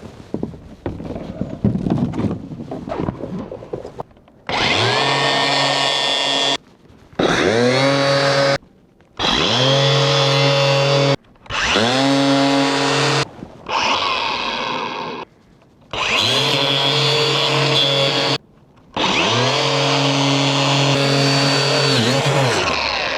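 Handheld power tool motor running in a string of short runs, each spinning up and winding down again, with brief pauses between them. Before the runs start, quieter handling and clatter.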